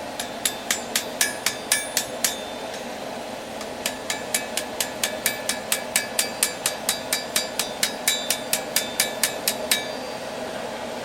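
Hammer blows on a railroad spike being forged on an anvil, each blow ringing: a quick run of about nine strikes, a short pause, then a longer steady run at about four strikes a second. A steady rushing noise runs underneath.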